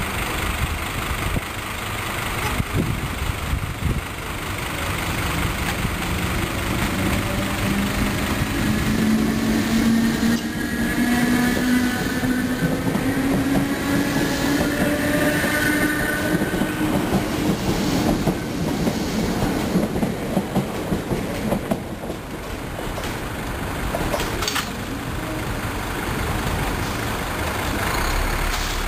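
DART electric commuter train pulling away and gathering speed, its traction motors giving a whine that climbs slowly in pitch. The wheels click over rail joints as it passes.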